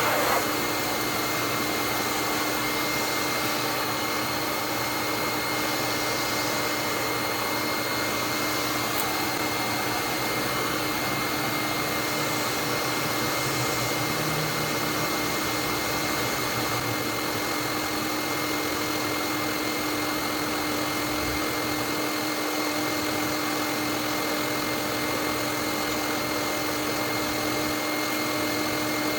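Vacuum cleaner running steadily with an even motor hum and a high whine, drawing built-up dust and debris off a neglected air conditioner condenser's coil fins.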